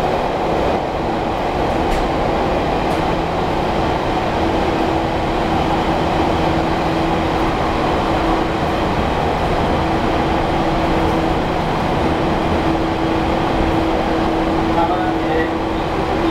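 Running noise inside a 413-series resistance-controlled electric train car: a steady rumble of wheels on rail with a steady motor hum.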